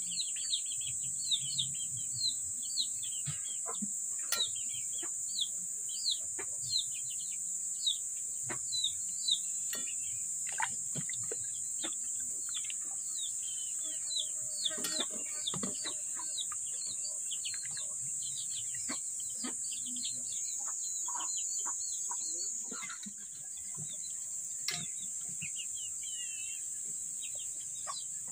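Small birds chirping over and over, many short high chirps about one or two a second, over a steady high-pitched hiss.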